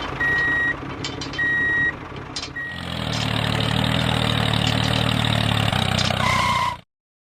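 Truck engine running steadily with a reversing alarm beeping twice, about a second apart. From about three seconds in, the engine runs louder, then it cuts off abruptly near the end.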